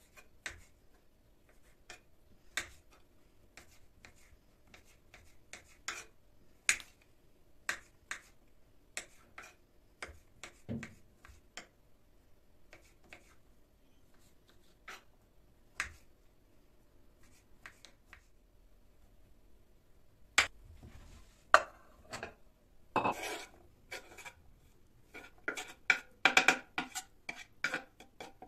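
Scattered sharp clicks and light knocks, spaced a second or so apart, turning into a busier clatter over the last eight seconds.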